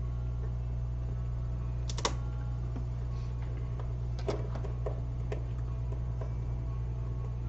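A few sharp clicks and taps of small tools at a repair bench, the loudest about 2 seconds in, over a steady low electrical hum.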